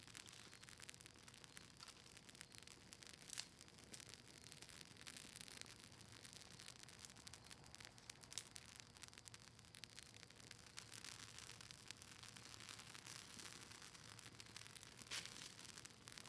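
Campfire of cedar leaves and maple wood crackling faintly: a steady soft hiss with scattered small pops, a few sharper ones about three, eight and fifteen seconds in.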